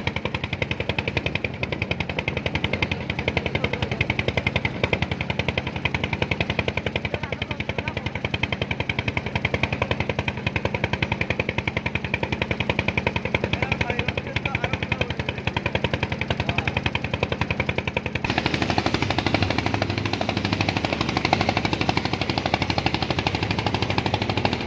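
A small engine running with a rapid, even chugging beat. About eighteen seconds in, its tone shifts lower and heavier.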